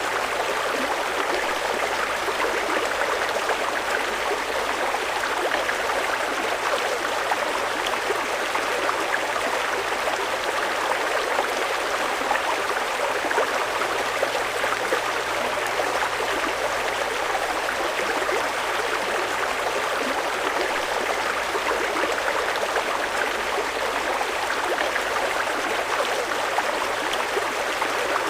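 Fast-flowing mountain river water rushing in a steady, unbroken wash.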